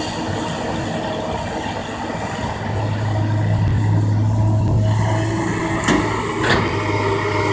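Kobelco excavator's diesel engine running, its low hum growing heavier about a third of the way in as it takes on load. Two sharp clanks come about half a second apart near the end.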